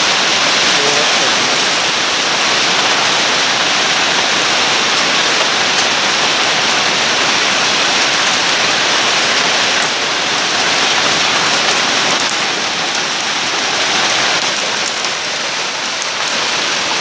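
Heavy rain mixed with hail falling hard during a hailstorm: a loud, dense, steady hiss of drops and ice pellets that eases slightly near the end.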